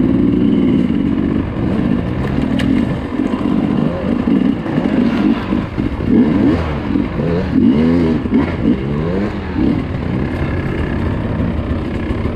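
Dirt bike engine revving hard in repeated throttle bursts, its pitch climbing and dropping again and again, with a few sharp knocks and clatter.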